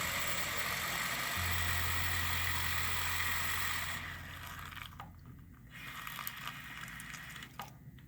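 Water pouring into a plastic water bottle as it is filled, a steady rushing that stops about four seconds in. After that come a few short clicks and crackles of the plastic bottle being handled.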